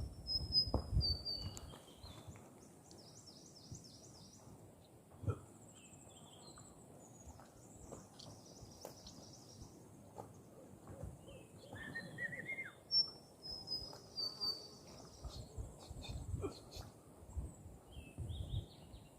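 Wild birds calling: a high whistled phrase that falls in pitch, heard twice, among scattered short chirps and trills, over a faint steady high insect buzz. A few soft low thumps.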